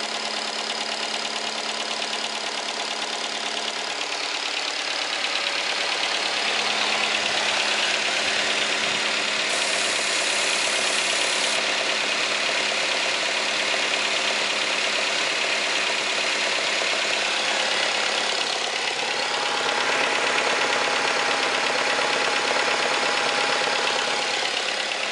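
Nissan MR20DE 2.0-litre inline-four engine idling after a cold start, with a distinct knock that shows up only at around 1000 rpm. The engine sound grows somewhat louder about five seconds in.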